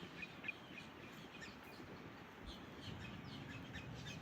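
Birds chirping: many short, high chirps over a steady low background noise.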